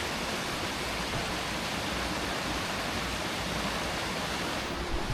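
Fast-flowing woodland river rushing over rocks, a steady hiss of water.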